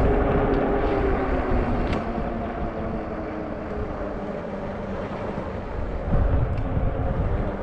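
Riding noise from a fat-tire e-bike on the move: wind buffeting the microphone over tyre rumble, with a faint steady hum that drops slightly in pitch over the first couple of seconds. A gust swells the rumble about six seconds in.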